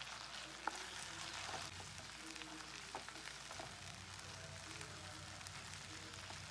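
Sliced tomatoes and onions sizzling softly in hot oil in a kadai while they are stirred with a plastic spoon, with a few light clicks of the spoon against the pan.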